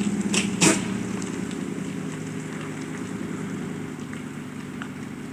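Vehicle engine idling steadily, with two sharp clanks in quick succession under a second in.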